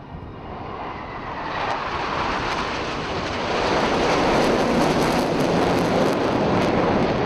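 Jet aircraft flying past, its engine noise swelling from about a second and a half in to its loudest in the second half.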